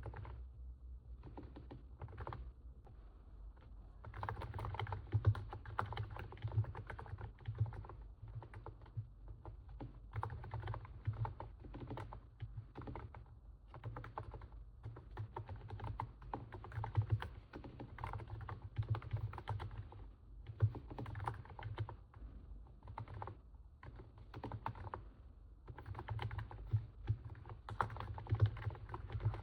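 Continuous typing on a NIZ 68 Pro capacitive keyboard: fast runs of soft keystrokes with short pauses, with the muffled crunch likened to stepping on snow. The typing thins out for a moment about two to four seconds in.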